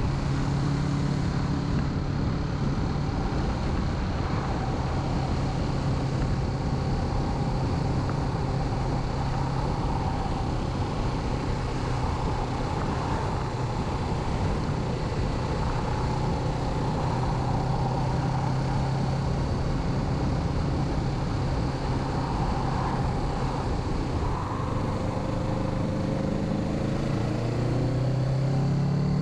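Kawasaki Z650's parallel-twin engine running at a steady cruise under heavy wind and road noise, heard from the rider's helmet. Near the end the engine note climbs as the bike accelerates.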